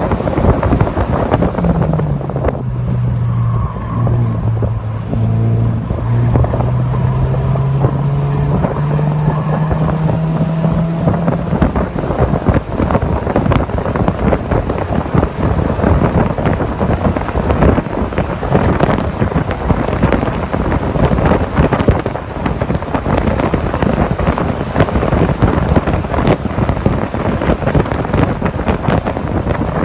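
Mazda MX-5 Miata (NC) four-cylinder engine on track. Its note drops about two seconds in as the car slows, then climbs steadily for about ten seconds under acceleration. After that it is largely buried under heavy wind buffeting on the microphone.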